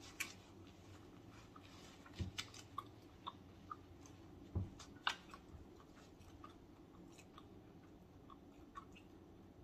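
Quiet close-up chewing of snow crab meat: soft mouth sounds with scattered short wet clicks and smacks, a few a little louder about two seconds in and around five seconds in.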